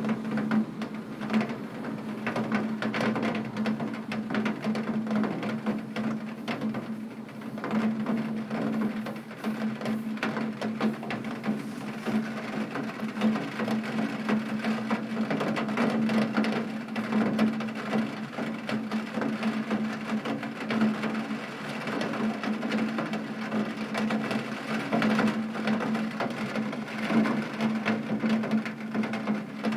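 Heavy rain on a window pane: a dense, steady patter of drops with many small taps, over a steady low hum.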